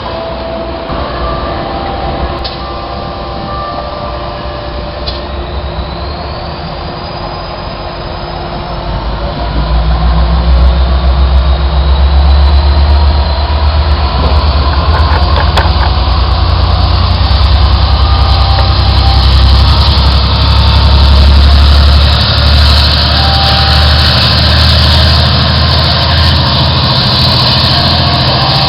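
A Metrolink commuter train with its diesel locomotive going by: steady rail noise with a thin rising squeal, then a loud, deep engine rumble that comes in about ten seconds in and keeps on.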